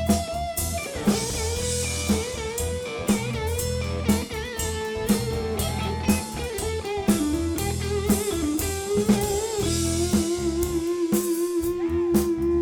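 Live band playing an instrumental passage: an electric guitar lead with bent notes over a steady drum beat and bass, settling into one long held note near the end.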